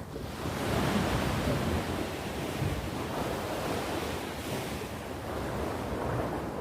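Sea waves breaking and washing on the shore, one swell rising about half a second in and ebbing slowly, with wind rumbling on the microphone.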